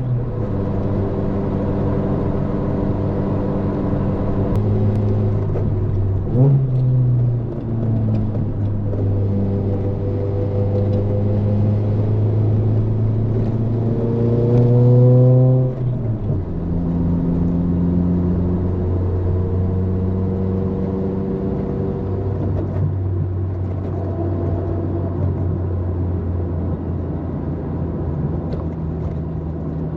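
Toyota AE86's 4A-GE twin-cam four-cylinder engine running through a Fujitsubo exhaust while driving. There is a short rev blip about six seconds in. The revs climb around fourteen to fifteen seconds, drop suddenly near sixteen seconds, then hold steady for the rest.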